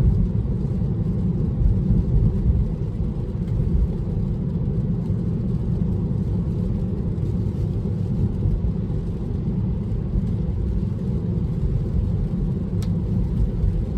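Steady low road and tyre rumble inside the cabin of a Tesla driving on wet pavement, with no engine sound. A single faint tick comes near the end.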